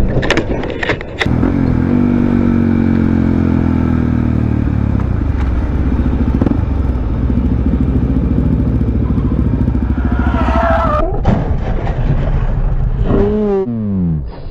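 A few sharp knocks and clatter, like a vehicle impact, in the first second, then a vehicle engine running with its pitch slowly falling for several seconds, as in a vehicle slowing down.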